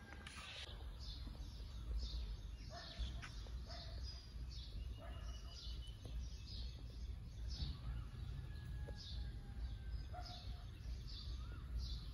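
Birds chirping in the morning: one bird repeats a short high chirp about twice a second, with a few lower whistled notes from others, over a steady low rumble.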